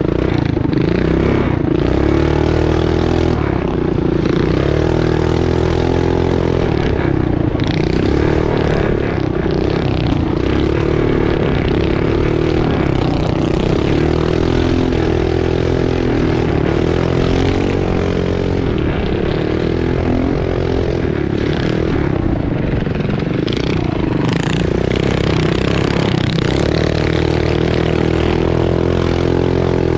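Mini bike's small single-cylinder engine running hard at racing pace, its pitch rising and falling over and over as the throttle is opened and eased, with rattles and knocks from the bike over rough ground.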